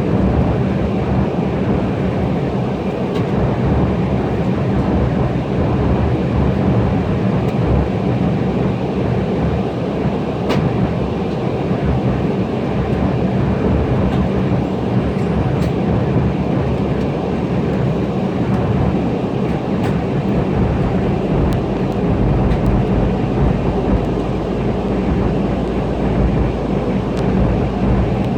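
Steady in-flight cabin noise of an Embraer E175 airliner: a dense rumble of airflow and its two turbofan engines, heard inside the cabin. The low rumble deepens about twenty seconds in.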